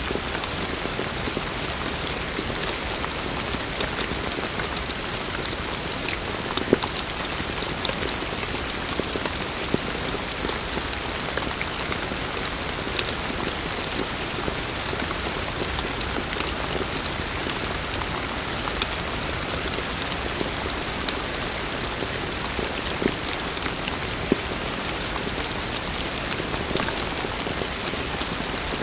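Heavy rain falling steadily, a dense even patter with the sharper ticks of individual drops hitting a surface close by, a few louder drops standing out.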